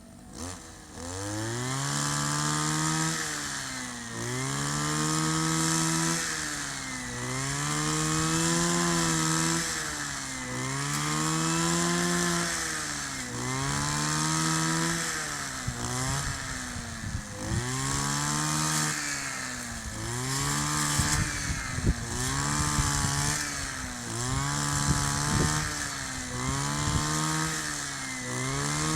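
Kioritz 260 two-stroke brush cutter engine revved up and eased back over and over, about once every two seconds. In the second half, sharp crackles come in over the engine.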